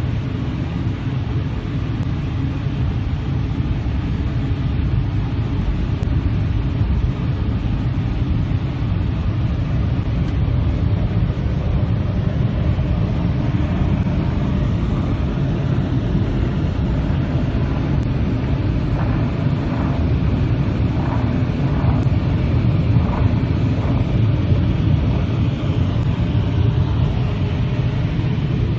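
Car running, heard from inside the cabin as it moves slowly: a steady low rumble of engine and road noise.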